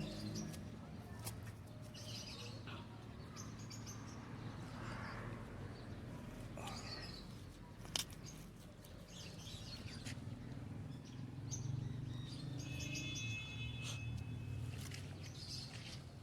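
Small birds chirping and calling in short, scattered phrases over a low steady hum, with a single sharp click about eight seconds in.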